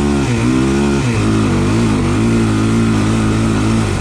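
Honda sport quad's single-cylinder four-stroke engine running under throttle on a hill climb. Its pitch swings up and down in the first second, then holds fairly steady with small rises and falls.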